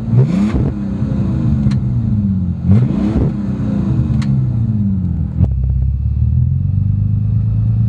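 Bentley Continental GT's 6.0-litre twin-turbo W12 engine blipped twice, each rev rising quickly and sinking slowly back, with a sharp click after each. It then settles into a steady idle about five seconds in.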